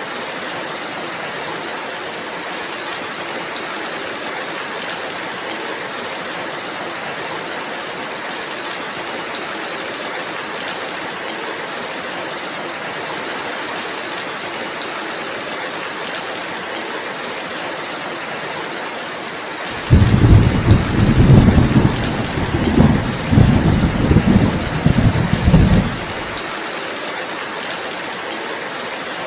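Steady rainfall hissing throughout. About two-thirds of the way in, a loud clap of thunder breaks in suddenly and rolls in low, pulsing rumbles for about six seconds before dying away under the rain.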